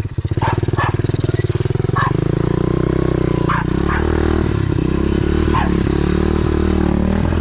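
A 125cc pit bike's engine running steadily at low speed; its separate firing pulses are clear for about the first second. A few short, higher-pitched sounds come over it now and then.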